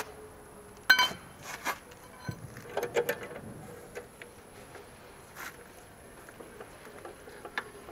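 Metal clinks and knocks of tools and wheel hardware while a car wheel is being refitted. There is a sharp ringing clank about a second in, then a few lighter knocks and clinks.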